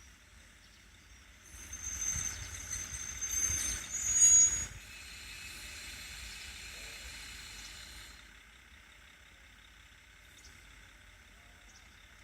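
Railway train's air brakes hissing. A burst of noise with a high squeal starts about a second and a half in and peaks near four seconds. A steady hiss of air follows and dies away about eight seconds in.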